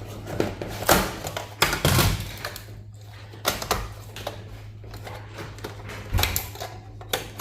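Irregular clicks and clunks of metal server parts being handled and cut during a teardown, over a steady low hum.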